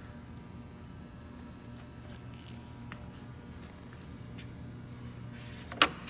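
Steady electrical hum with a few faint small taps, then a sharp, loud clink near the end as gearbox parts are handled.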